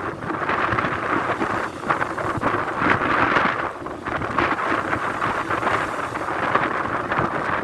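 Very strong sea wind blowing in gusts across the microphone, with the rush of waves mixed in. It surges and eases, with a brief lull about four seconds in.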